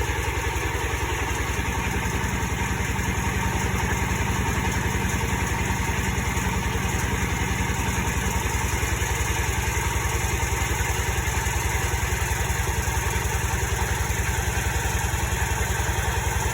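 The engine of a drilling machine running steadily at idle, with an even, fast pulsing beat.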